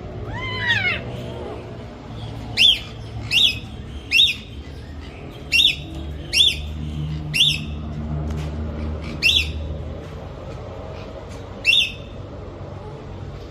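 A bird squawking: a lower, arching call near the start, then about eight short, sharp calls at irregular intervals.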